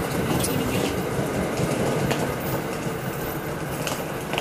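Commuter train pulling away: a steady rumble of the wheels and cars on the rails, slowly fading, with a few short sharp clicks.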